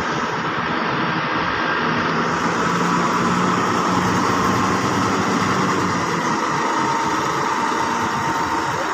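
Heavy vehicle engine running steadily, with a low hum under a broad engine and road noise.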